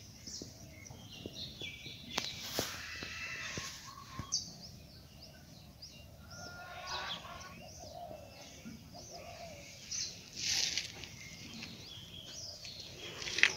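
Small birds chirping and calling in many short, overlapping notes, with a few sharp clicks and a brief hiss about ten seconds in.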